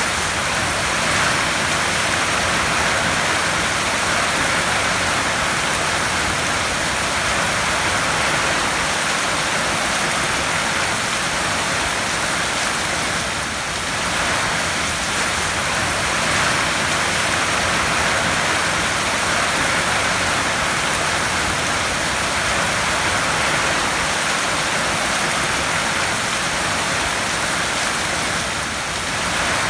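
Heavy rain drumming steadily on a tin roof, a dense even patter that eases slightly twice.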